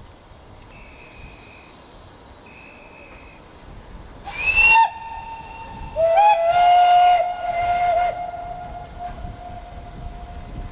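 Steam locomotive whistle: a short blast about four seconds in, then a longer blast that starts about six seconds in and tails off. Two faint, short high-pitched tones come first.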